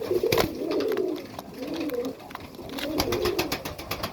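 Pigeons cooing in a loft, with repeated low rolling coos. A sharp knock comes about half a second in, and a quick run of clicks about three seconds in.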